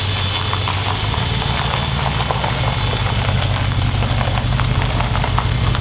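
Corvette V8 in a Cobra replica running at low speed as the car drives slowly past, a steady low engine note growing a little louder in the second half, with scattered light clicks over it.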